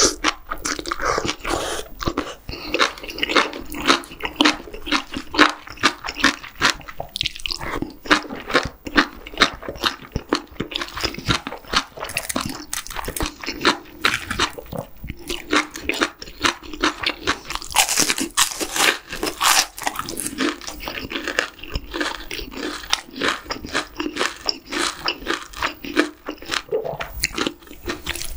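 Close-miked mouth sounds of a person eating: steady irregular chewing and biting, with crisp crunching from batter-fried shrimp and soft wet chewing of spicy stir-fried webfoot octopus with rice. The crunching is densest a little past the middle.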